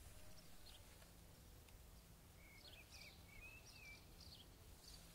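Near silence with faint bird chirps: a scattering of short calls and a brief warbling phrase in the middle, over a low steady background rumble.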